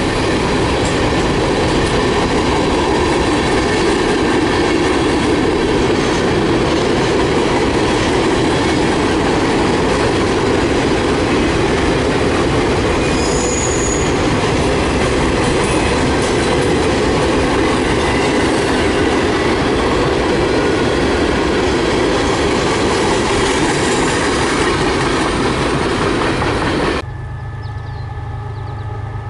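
Freight cars, covered hoppers and boxcars, rolling past steadily: a wheel-on-rail rumble with clickety-clack and a brief wheel squeal about halfway through. Near the end the sound drops suddenly to a quieter low hum.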